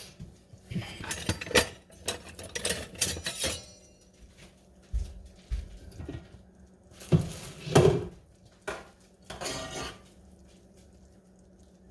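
Kitchen utensils clinking and knocking against pots and dishes: a run of sharp clinks, two dull thuds, then louder knocks around seven to eight seconds in.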